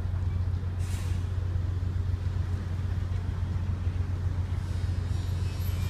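Steady low drone of a ship's engines, heard aboard, with a brief hiss about a second in.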